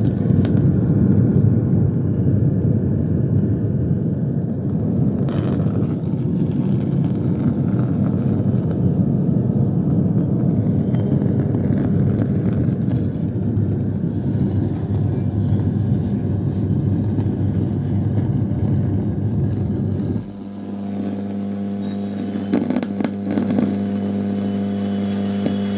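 Home theatre amplifier humming through its speaker with no audio: a rough, loud low hum that about twenty seconds in drops slightly and turns into a steady, even hum. The humming-with-no-sound fault is put down to a failed 2030 audio amplifier IC.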